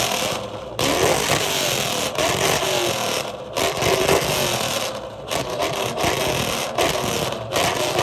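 Fox-body Mustang engine with a loud exhaust, revved hard several times in a row, the pitch rising and falling with each rev, up to around 7,000 RPM.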